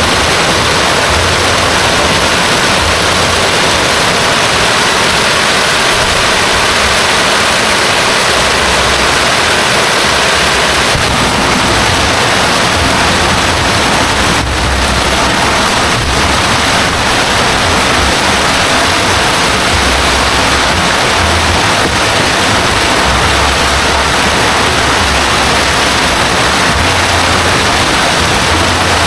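Heavy rain falling steadily: a loud, dense, unbroken hiss.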